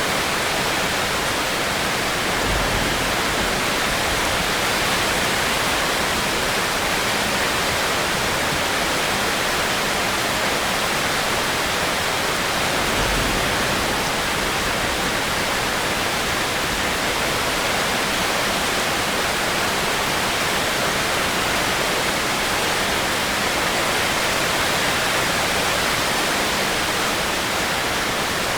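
Steady, even hiss of heavy rain, with brief low rumbles about two and thirteen seconds in.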